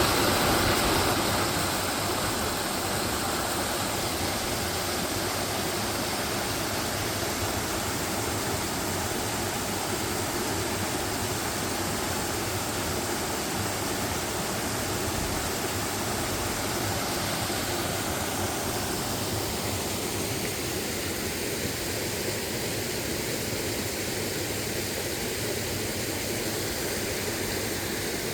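Waterfall: a steady rush of falling water, easing slightly in level in the first couple of seconds and then holding even.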